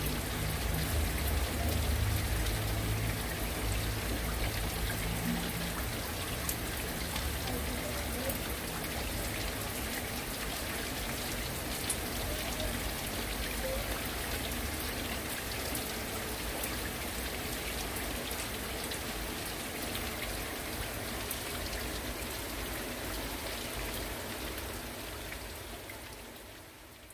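Heavy rain falling: a steady hiss with scattered sharp drop taps. A low rumble underlies the first few seconds, and the sound fades out near the end.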